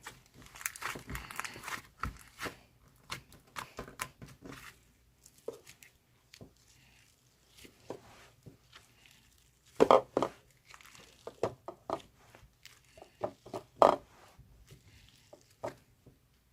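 Irregular handling noise: rustling and tearing of paper-like material in bursts, with sharp clicks and knocks, the loudest about ten seconds in and again near the end.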